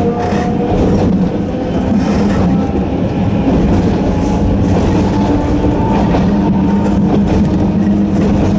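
Narrow-gauge electric train of the Sangi Railway Hokusei Line running, its nose-suspended traction motors giving a steady low hum under a higher whine that drifts slowly in pitch, over a continuous rolling rumble with a few light clicks.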